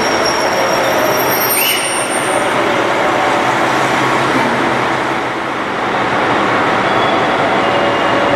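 Electric train running past on the rails, a steady rumble of wheel and rail noise, with brief high squeals in the first two seconds.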